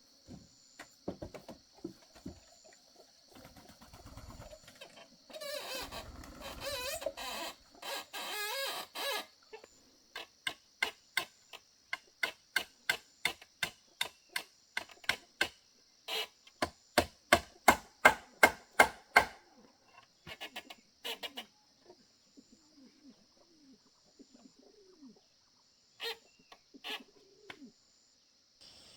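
Hammer driving nails into the wooden gate: a long run of sharp, evenly spaced blows, about two a second, getting louder toward the middle, then a few more blows later. Before them comes a few seconds of scraping rasp.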